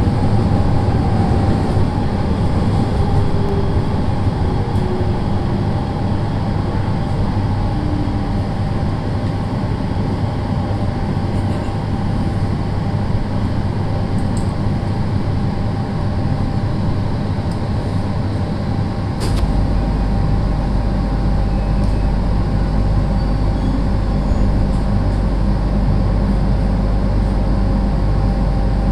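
Running noise inside a JR East 701 series electric train car: a steady rumble of wheels on the rails with a low hum under it. The lowest rumble grows deeper and stronger about two-thirds of the way through.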